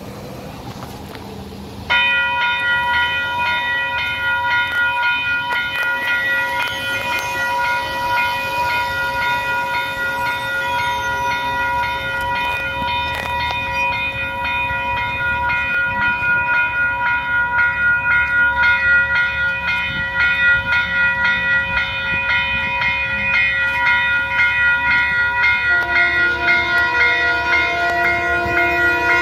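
Metro-North passenger train at close range: a loud, steady high-pitched whine with several overtones comes in suddenly about two seconds in, over the rumble and clicks of the wheels on the rails. A second, lower tone joins near the end.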